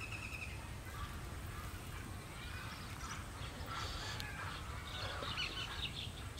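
Quiet outdoor ambience: a steady low rumble with faint scattered bird calls, including a short rapid trill right at the start.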